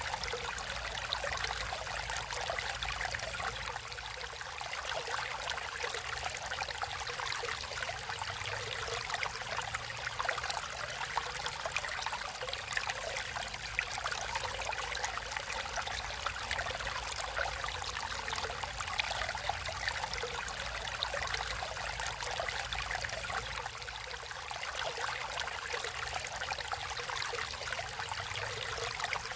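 Naturally flowing water running steadily with a fine, continuous splashing and trickling, over a faint low rumble.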